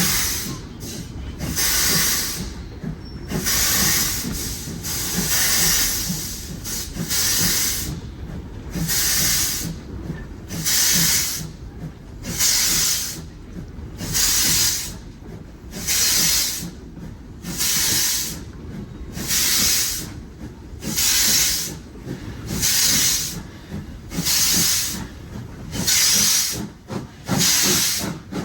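Steam locomotive hissing in regular bursts, about one every two seconds, over a low rumble.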